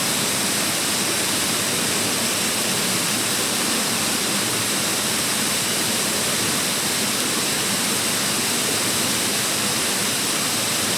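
Mountain stream water rushing, a steady, unbroken hiss.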